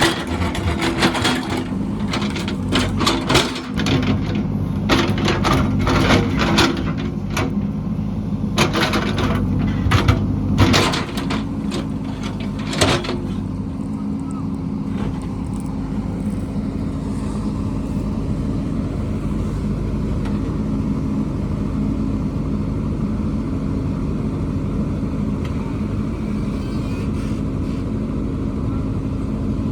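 Heavy construction machine's engine running steadily, with a run of sharp metallic clanks and knocks through the first dozen or so seconds that then stop, leaving only the steady engine.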